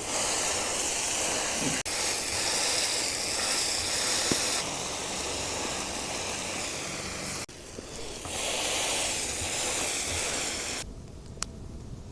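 Thick burger patty sizzling in a frying pan: a steady frying hiss that drops to a much lower level about eleven seconds in.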